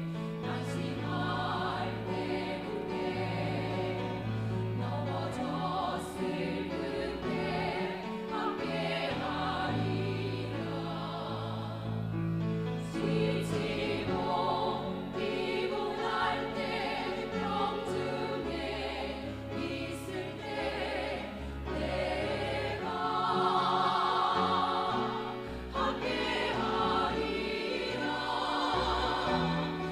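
Small church vocal ensemble singing a Korean gospel song together, voices in several parts.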